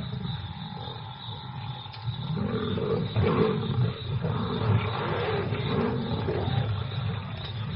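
Lions growling and snarling as they attack a buffalo calf, louder from about two seconds in.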